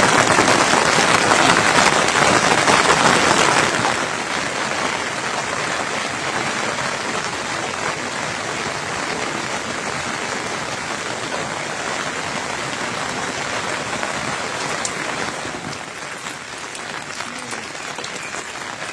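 Heavy rain falling steadily, a dense pattering hiss. It is louder at first, drops to a lower steady level about four seconds in, and eases a little more near the end.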